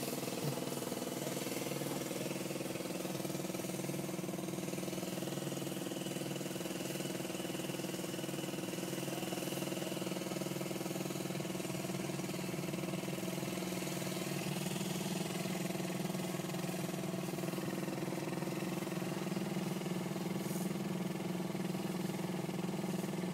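An engine idling steadily, a constant even drone with no change in speed.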